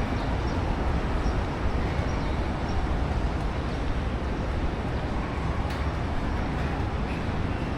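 Steady road traffic noise, an even rumble and hiss with no breaks.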